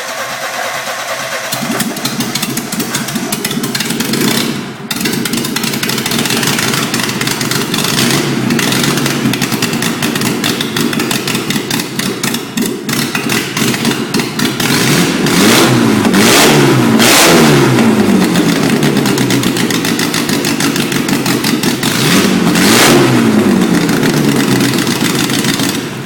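Tuned VAZ four-cylinder engine with a performance camshaft running on its first start. It runs steadily at first, then is revved up and down several times in the second half, its pitch rising and falling with each blip.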